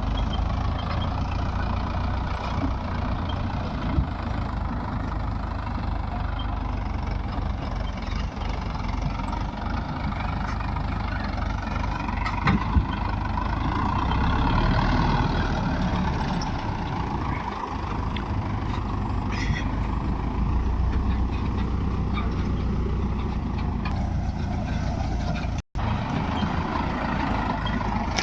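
Mahindra Yuvo Tech+ 585 DI tractor's diesel engine running steadily under load. The sound cuts out for an instant near the end.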